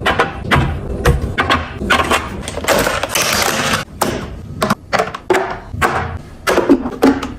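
Handling sounds from stocking a refrigerator: a quick run of clicks, taps and clatters of containers being set down and moved, with a hiss lasting about a second, about three seconds in.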